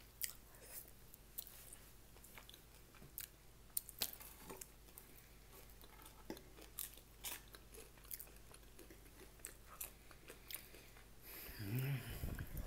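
Close-miked chewing of food, with many short mouth clicks and small crunches at irregular moments. Near the end there is a louder low sound lasting about a second.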